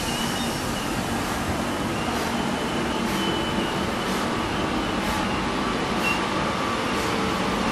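ETR 460 high-speed train rolling slowly in along the platform: a steady running noise with faint ticks about once a second.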